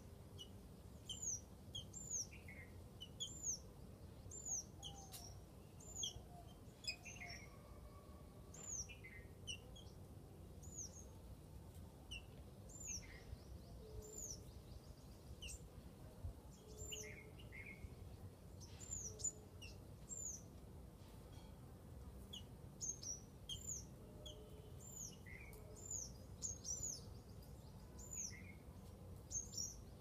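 Small birds chirping: a steady series of short, high, thin chirps, each rising and falling quickly, about once a second, with some lower chirps mixed in.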